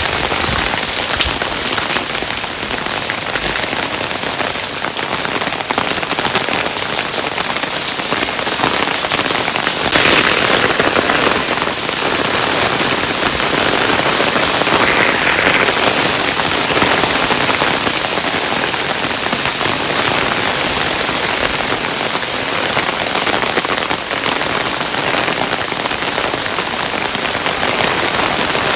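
Hailstones falling steadily, a dense patter of countless small impacts, a little heavier about ten seconds in and again a few seconds later.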